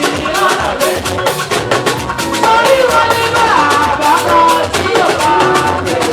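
Praise band playing: drum kit and hand percussion keep a fast, busy beat under a melody line that slides in pitch.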